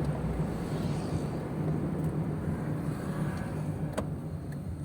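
Car running on the road, a steady low engine and road hum heard from inside the cabin, with a single sharp click about four seconds in.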